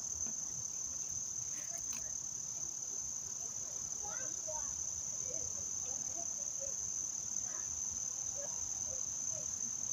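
Steady high-pitched chorus of singing insects, an unbroken even trill.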